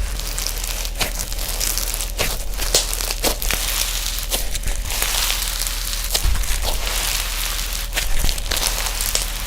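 Slime being squished and poked by hand: a dense run of crackles with irregular sharp clicks and pops.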